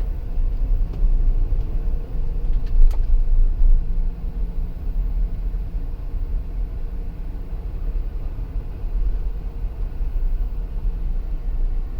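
Dodge Durango's Hemi V8 drivetrain at low speed, a steady low grinding rumble of the kind the owner reports when slowing to about 20 mph or pulling away from a stop, with a couple of short clicks in the first few seconds.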